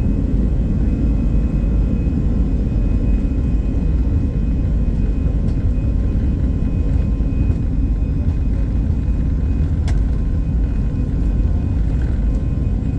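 Airbus A320 jet airliner's engines and airframe giving a loud, steady rumble with a faint high whine.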